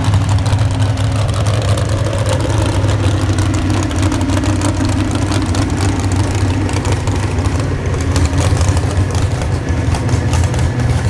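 Loud engine of a pulling vehicle running steadily at a fairly even speed, with a deep hum and a crackling edge.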